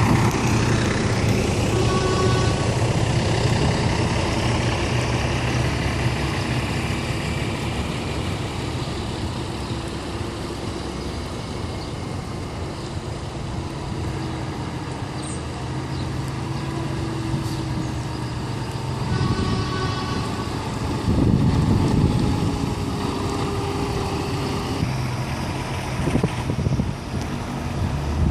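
Heavy truck diesel engines running as lorries pull away and pass. A multi-tone air horn sounds at the start and again about two-thirds of the way through, and an engine gets louder briefly just after.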